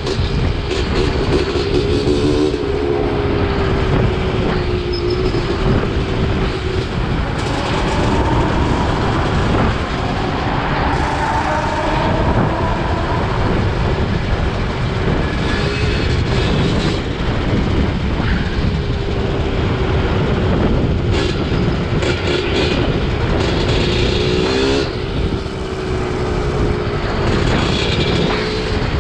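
Dirt bike and small motorcycle engines running, their revs rising and falling, over a steady loud rumble.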